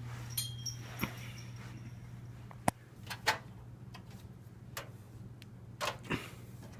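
Scattered clicks and knocks from a late-1970s Superlectric box fan being handled and turned over while switched off, the sharpest a little under three seconds in. A steady low hum runs underneath.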